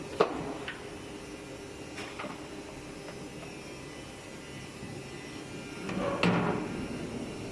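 Injection moulding machine running during a mould trial: a steady hum, a sharp metallic clunk just after the start, and a louder, longer clunk about six seconds in.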